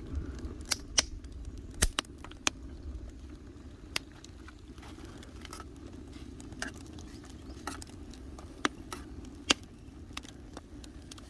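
Wood fire burning in a hwadeok (clay fire oven), scattered sharp crackles and pops at irregular moments over a steady low rush of the fire.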